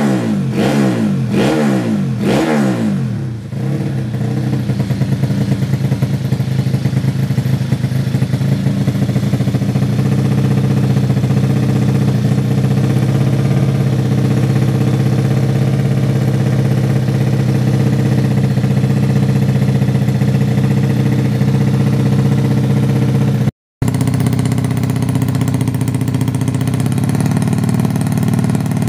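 Yamaha Jupiter underbone motorcycle's four-stroke single-cylinder engine, bored up to 130cc and tuned for grasstrack, revved in a quick series of short throttle blips for the first few seconds, then settling to a steady idle. The sound drops out for a split second near the end.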